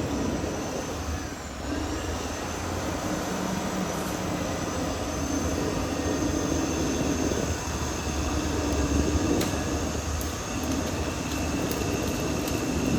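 Caterpillar D6R XL bulldozer's diesel engine running steadily under load, with a thin high whine above the rumble; it grows louder near the end.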